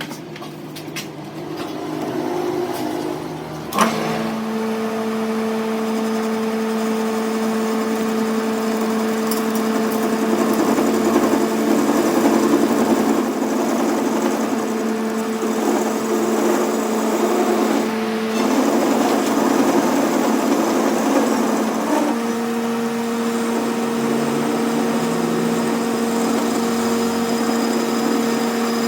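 A motor switched on with a click about four seconds in, then running with a steady hum, briefly dipping near 18 seconds and settling at a slightly different pitch about 22 seconds in.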